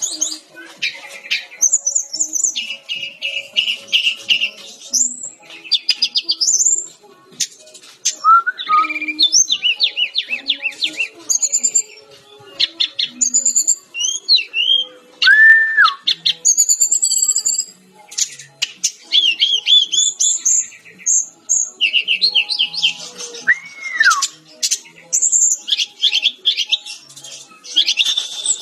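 A sikatan-rimba dada-coklat jungle flycatcher (SRDC) singing a long, varied song. Rapid chirps, trills and quick sweeping notes run on with only short breaks, and a lower arched whistle is slurred in three times.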